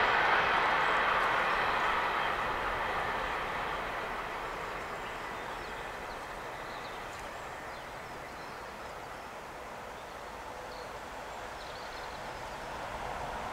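Rumble of a train fading away. It is followed by a DB class 145 electric locomotive approaching with its freight train, its rail noise rising again near the end. Faint bird chirps can be heard midway.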